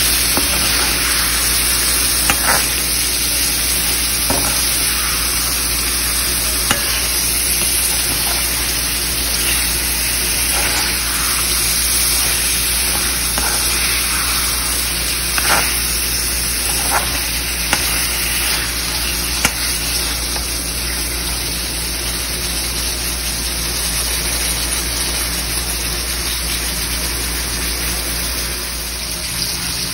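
Chicken masala gravy with tomato and dry fenugreek leaves sizzling steadily in a pan as a spatula stirs it, with a few sharp clicks of the spatula against the pan scattered through the first two-thirds.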